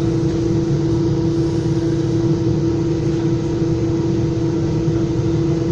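Inside a Metra commuter train coach: a steady low rumble with a constant droning hum.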